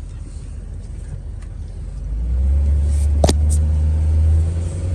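2000 Ford F250's 5.4-litre V8 engine running as the truck drives, its low rumble swelling about two seconds in as it accelerates and pulls with good power. A single sharp click comes about three seconds in.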